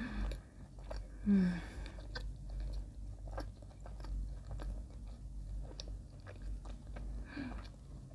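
Close-up mouth sounds of a person chewing soft white bread spread with Lotus Biscoff spread: many small clicks and smacks. A short hummed "mm" of enjoyment comes about a second in, and a fainter one near the end.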